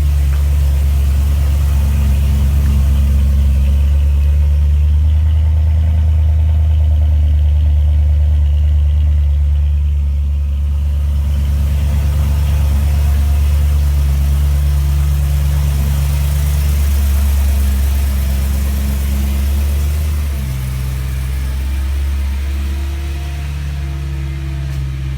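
BMW E90 M3's 4.0-litre V8 idling steadily through an M Performance exhaust, with a deep, even rumble made louder by a closed garage. The idle steps down slightly about twenty seconds in.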